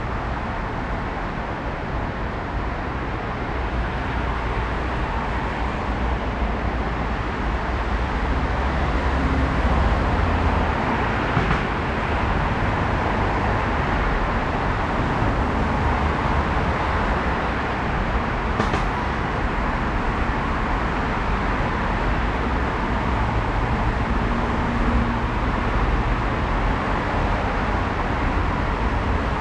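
Steady street traffic and riding noise heard from a moving bicycle, with a constant low wind rumble on the microphone.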